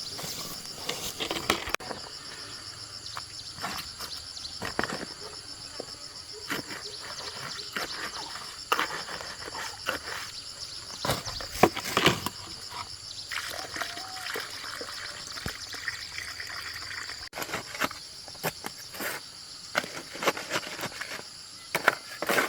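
Insects chirring in a steady, high, fast-pulsing drone, with irregular sharp knocks and clicks scattered over it.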